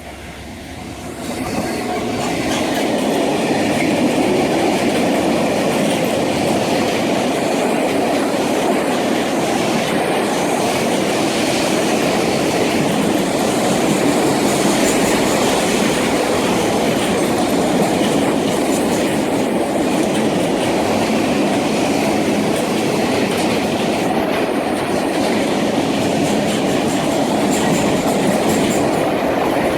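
Long freight train rolling past at speed: steady, loud wheel and rail noise with rhythmic clickety-clack over the rail joints and occasional faint wheel squeal, building up over the first couple of seconds.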